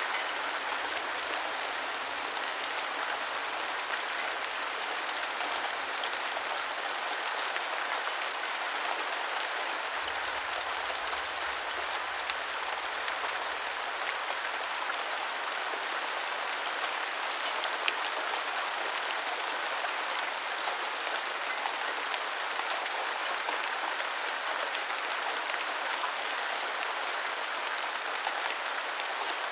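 Steady rain falling, a dense even patter of drops with scattered louder individual drop hits.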